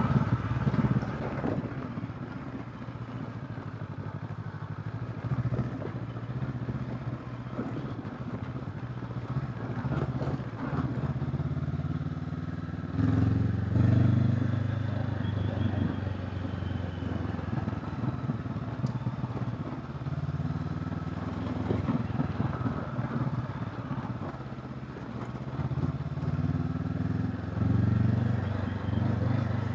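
Honda CB500X's parallel-twin engine running under way, its pitch rising and falling with throttle changes, with brief surges about halfway through and again near the end, and scattered light clatter.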